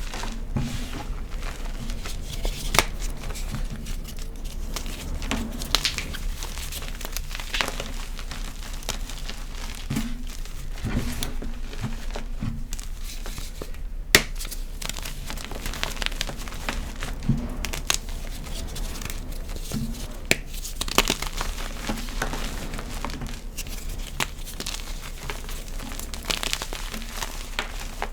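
Hands crushing and crumbling an extra-crispy block of gym chalk: dense crunching and crackling, with sharp snaps now and then, the loudest about 14 seconds in.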